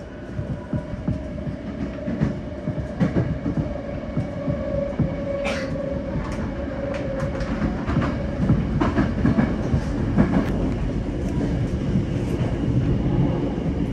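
Electric commuter train running on the rails, heard from inside the carriage: a steady rumble with scattered sharp clicks from the wheels over the track. A steady whine sounds until about eight or nine seconds in, then fades out.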